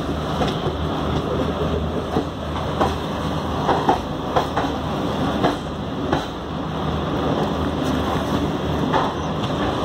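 Passenger train rolling slowly into a station, heard from aboard: a steady rumble with irregular clacks of the wheels over rail joints and points.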